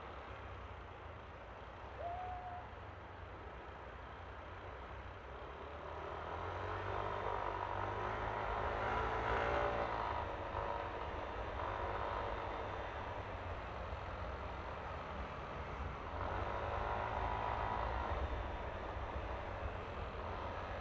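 Riding sound from a Yamaha Aerox V3 scooter on the road: a steady low rumble of engine and road noise. Engine sound swells and rises and falls in pitch from about six to twelve seconds in, and again near the end. A brief short tone sounds about two seconds in.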